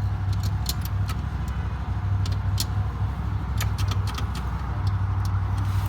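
Ducati 1198S Superbike L-twin engine, fitted in a Streetfighter, idling steadily on its first startup after the engine swap, with sharp ticks scattered through.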